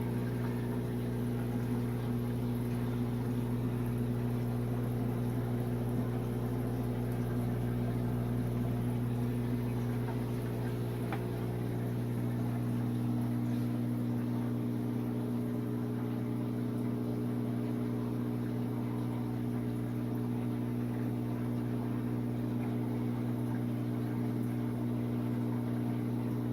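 Aquarium pumps humming steadily: the sump return pump, canister filters and air pumps feeding air stones, a constant low electric drone.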